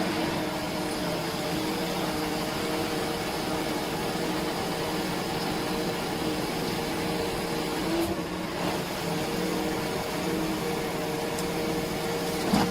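An engine running at a steady speed, a continuous drone with a noisy hiss over it, and a short knock near the end.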